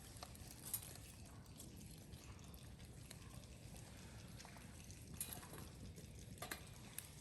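Wood fire crackling quietly, with a few sharp pops over a low steady rumble.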